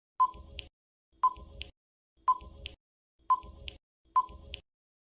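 Quiz countdown timer sound effect: five short ticks about a second apart, each a brief ping followed by a fainter click.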